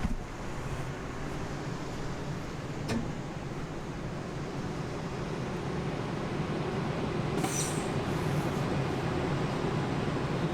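Suburban electric train running between stations, a steady low rumble heard from inside the carriage, with a single knock about three seconds in and a brief high hiss about seven and a half seconds in.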